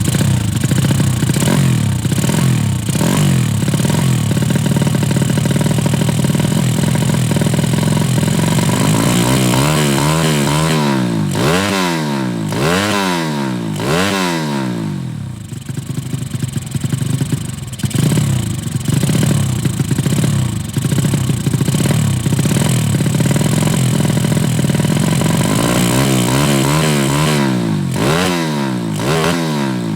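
Tuned 200 cc underbone racing motorcycle engine running at idle, then revved in a series of quick rising-and-falling blips about a third of the way in and again near the end.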